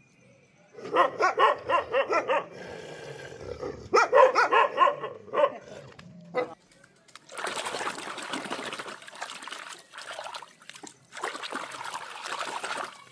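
Two quick runs of dog-like barks, several a second. Then, from about seven seconds in, running water spraying and splashing, with a short break in the middle.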